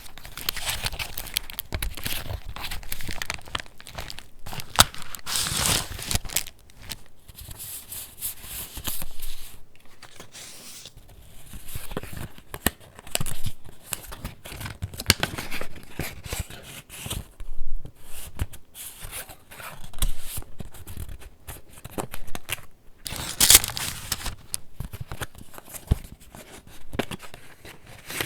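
Paper pages of a handmade junk journal being turned and handled: rustling and crinkling in irregular bursts with short pauses between them.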